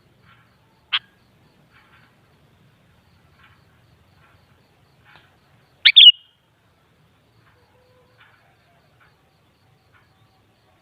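Sooty-headed bulbul (kutilang) calling: one sharp short note about a second in and a louder double note near the middle, with faint soft chips in between.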